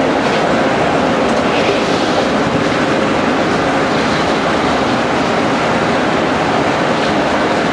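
Steady, loud rumble of road and wind noise from a police car driving fast.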